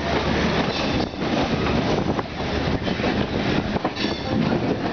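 Trains running on the rails: a steady, loud rumble and rattle of wheels over the track, with a faint high wheel squeal about four seconds in.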